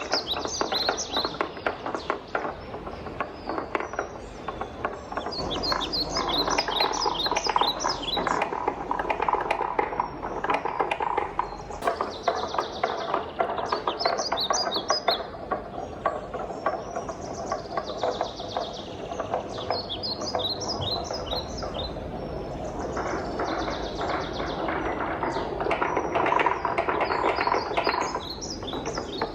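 Many wooden balls rolling and clacking down a wooden marble run: a continuous rolling rumble under a dense patter of wood-on-wood knocks, with quick clusters of bright, high ticks every few seconds.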